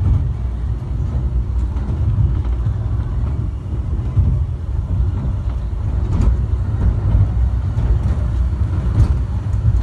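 Low, steady rumble of an airport people-mover train running slowly, heard from inside a crowded car, with a few faint clicks.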